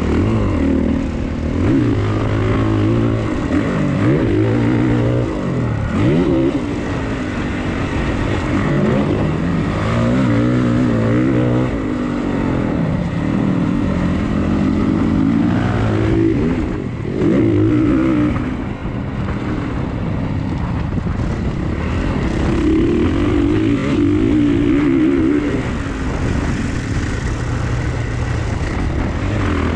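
Dirt bike engine revving hard, its pitch repeatedly climbing and dropping back as the throttle opens and closes and the gears change.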